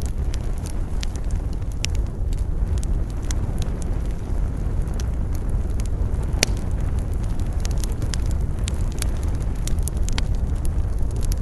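Campfire crackling, with irregular sharp pops and snaps of burning wood, over a steady low rush of wind.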